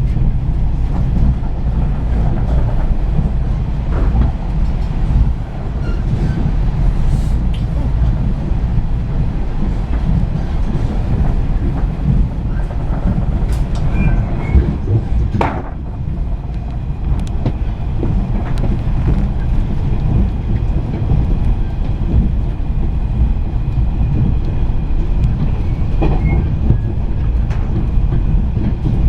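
A JR East 485-series electric express train running at speed, heard from inside the passenger car: a steady low rumble of wheels on track with a few sharp clicks from the rails.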